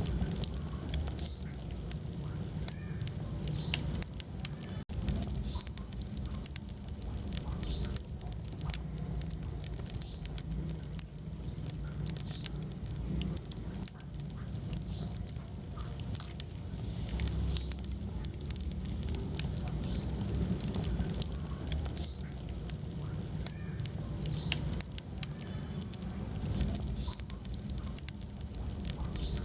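Wood fire burning in a fireplace: frequent sharp crackles and pops over a steady low rumble of flames, with a split-second dropout about five seconds in.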